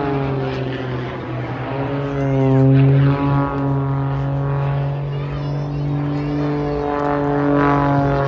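Pitts Special aerobatic biplane's propeller engine during a display. Its note slides down at first, holds steady, then rises and falls again near the end.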